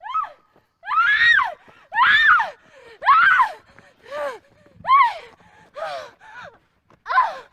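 A woman screaming in short, high cries, about one a second, each rising and then falling in pitch; the later cries are weaker.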